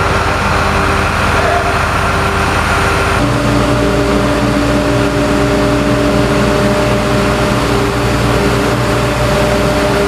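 The engines and suction machinery of a rail tunnel-cleaning train run steadily, a loud continuous drone with a steady hum. The pitch of the hum changes abruptly about three seconds in.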